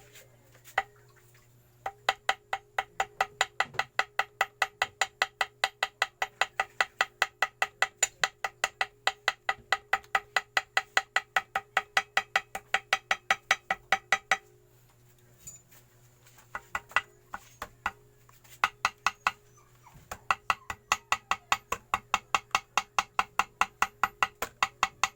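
A small hammer tapping gasket material against the edge of a motorcycle engine case, cutting the gasket out. The taps come quickly and evenly, about five a second, each with a short ring. They stop for a few seconds about halfway through, then start again.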